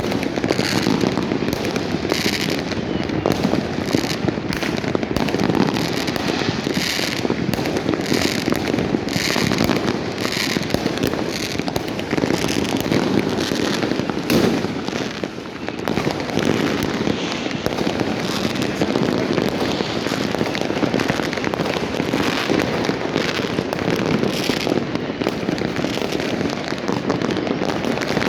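Many fireworks and firecrackers going off at once: a dense, unbroken crackle of overlapping bangs, easing briefly about halfway through.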